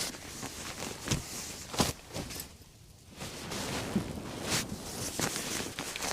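Irregular rustling with a few sharp knocks and bumps, from handling bedding and gear inside a tent, with a brief lull about halfway through.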